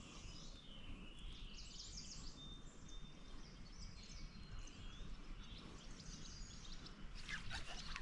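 Faint outdoor ambience: small birds singing in short, gliding high phrases over a low, steady background hiss. A few short crackles come near the end.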